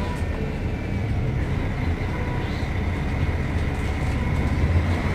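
Mercedes-Benz O500UDA bus's diesel engine running steadily, a low rumble with a thin high whine over it.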